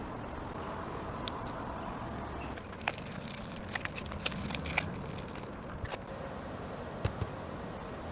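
Scattered short, sharp clicks and light knocks, a dozen or so at irregular times and thickest around the middle, over a steady background noise.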